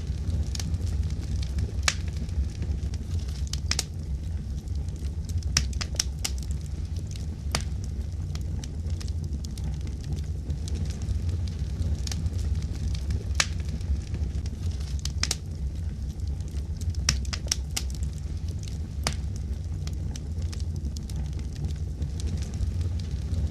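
Wood fire crackling in a fireplace: a steady low rumble with sharp pops and snaps at irregular intervals.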